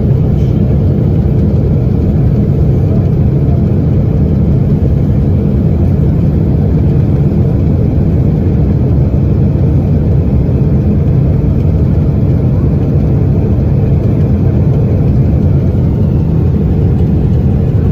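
Loud, steady low roar of a Boeing 777 in flight with a failed engine, unchanging throughout.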